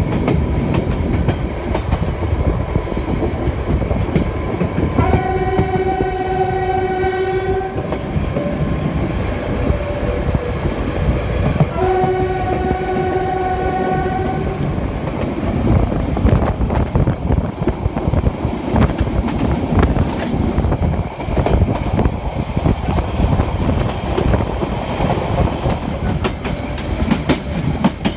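Narrow-gauge train running, with steady rumble and clicking of the wheels on the rails, heard from aboard. The red "Harzkamel" diesel locomotive sounds its horn twice, each blast about two and a half seconds long, about five and twelve seconds in.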